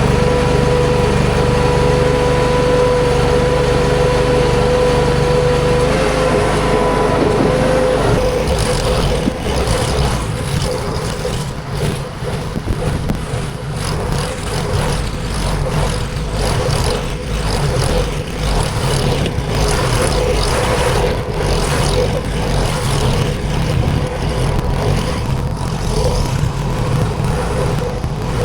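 Mini tracked skid steer running, with a steady engine note and whine for the first several seconds. After that the sound turns rougher and uneven as it works, with irregular clanks and knocks.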